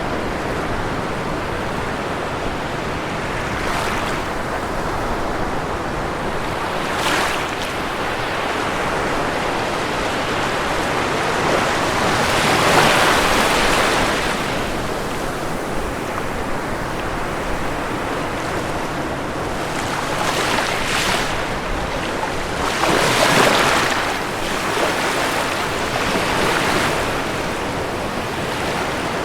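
Ocean waves breaking on a shore over a steady rush of surf, with two bigger waves swelling and falling away, one about twelve seconds in and one about twenty-three seconds in, between smaller ones.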